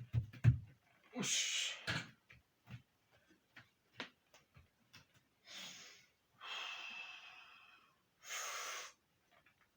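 A man breathing hard and forcefully through heavy safety-squat-bar squats: four loud, hissing breaths, one of them long with a wheezy whistle. A few low thuds come first, about half a second in.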